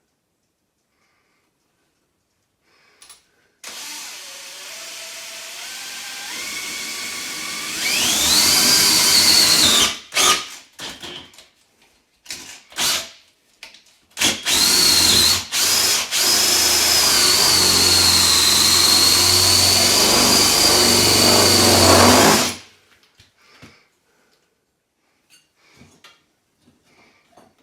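Electric power tool starting up, its motor speed rising in steps, then a few short on-off bursts and a long steady run with a high whine before it stops abruptly.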